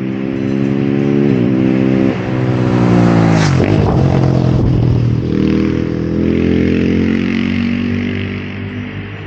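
KTM 690 SMC R single-cylinder engine under way, the pitch climbing and then dropping sharply at two quick upshifts in the first couple of seconds. About three seconds in the engine note falls away as the bike slows, then it pulls steadily again and eases off near the end.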